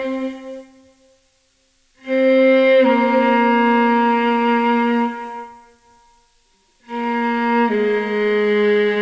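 Viola playing slow, long bowed notes in two drawn-out phrases separated by short silences. Each phrase starts on a held note and steps down to a slightly lower note after under a second, then sustains and fades.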